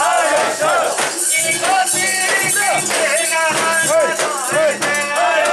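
A crowd of mikoshi bearers chanting short calls over and over, many voices overlapping, over a constant high rattling jingle.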